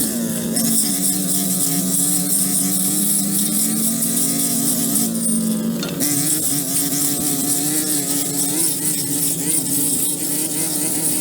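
An engine running steadily under a strong high hiss, its pitch shifting abruptly about six seconds in.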